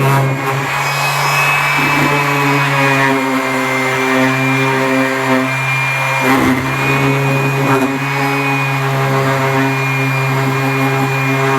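Electric power tool running steadily, with a few brief changes in its tone along the way.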